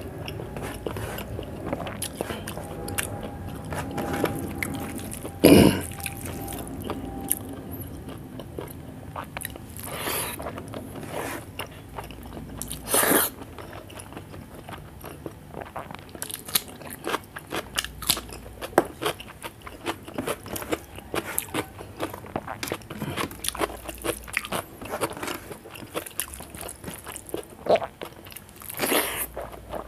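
Close-up eating sounds of a person eating rice and curry by hand: steady chewing and lip smacking with crunchy bites, and a few louder smacks or bites about five seconds in, about thirteen seconds in and near the end.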